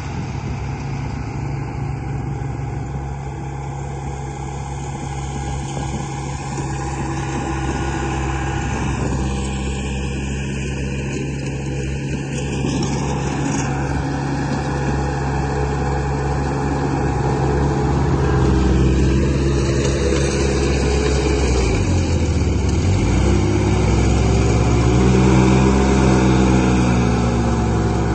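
Remote-control model construction vehicles running, a steady engine-like motor drone. About two-thirds of the way in it grows louder and its pitch rises and falls as the machines work.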